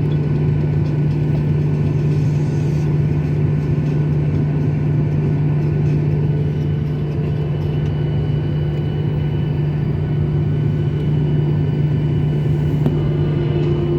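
Airliner cabin noise: a steady low jet-engine hum and rumble heard from inside the passenger cabin, holding even with no change in power.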